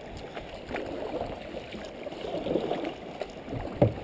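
Water gurgling and lapping around a kayak as it is paddled, with one sharp knock near the end.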